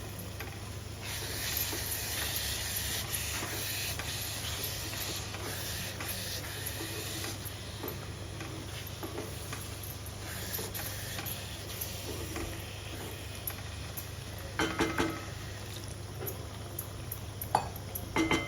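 Onion, potato and spice masala sizzling in a pot after a splash of water, the sizzle loudest in the first few seconds. A spoon stirs it and clinks against the pot a few times near the end, over a steady low hum.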